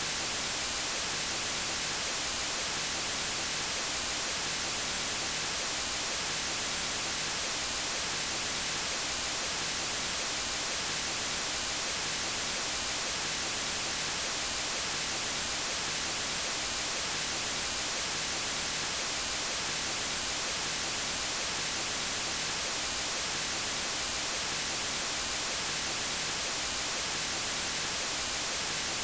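Steady white noise, an even hiss strongest in the high frequencies, unchanging throughout.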